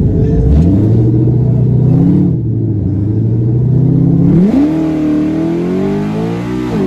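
Car engine accelerating hard. Its pitch climbs, drops sharply about two seconds in as it shifts gear, holds briefly, then climbs again from about four seconds in.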